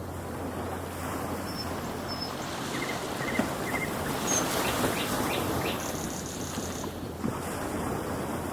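Birds chirping: a few short calls and quick falling chirps over a steady rushing background noise.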